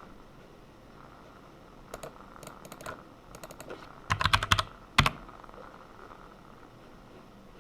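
Typing on a computer keyboard: scattered keystrokes, then a quick run of louder keystrokes about four seconds in, and one loud keystroke about a second later.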